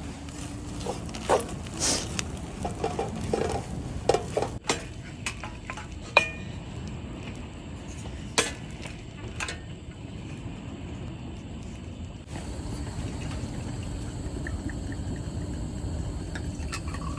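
Dishes and cutlery clinking and clattering as food is prepared, a string of sharp knocks and clinks over a steady low rumble. About twelve seconds in a steadier hiss sets in suddenly.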